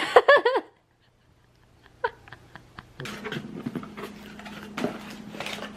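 A dog whining in a quick run of high cries, then one short rising whine about two seconds in. Afterwards faint clicks and handling noises over a low steady hum.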